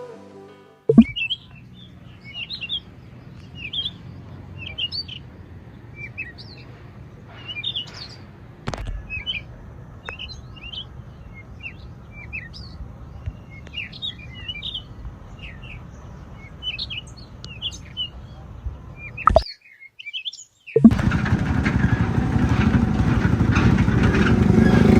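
Birds chirping, many short high calls over a low steady background. Near the end, after a brief drop to silence, a loud steady rushing noise takes over and grows louder.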